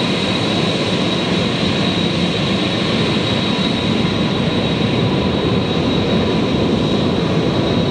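Jet airliner engines running, a steady rushing noise with a thin, high, steady whine over it.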